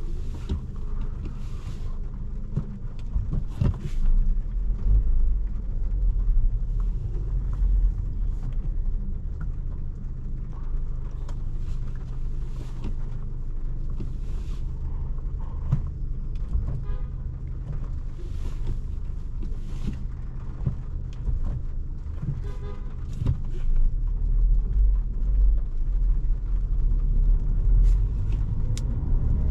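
Steady low rumble of a car idling and creeping in stop-and-go traffic, heard from inside the cabin of a 2017 Volkswagen Jetta. A deeper surge comes about 5 s in and again near the end. Two short car-horn sounds come from surrounding traffic partway through.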